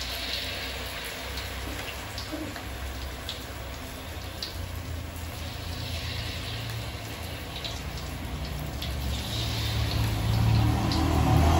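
Battered banana pieces frying in hot oil in a wok: a steady sizzle with scattered crackles and pops. A low rumble builds toward the end.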